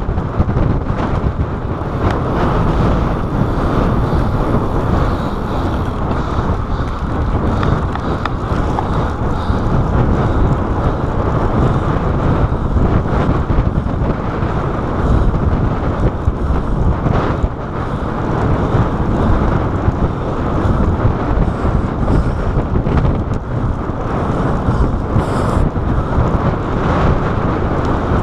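Wind buffeting the microphone of a chest-mounted GoPro on a bicycle ridden at speed: a loud, steady rush of low noise that rises and falls slightly with the gusts.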